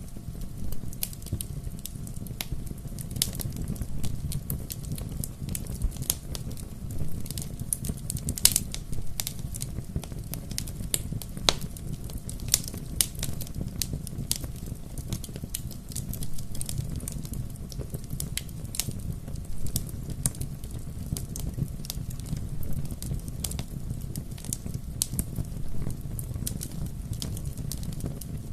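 Wood fire burning with a steady low rumble of flames and frequent sharp crackles and pops scattered throughout.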